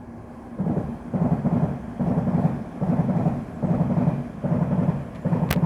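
Train passing close below, a loud low rumble that pulses a little under once a second as the wheels run over the track.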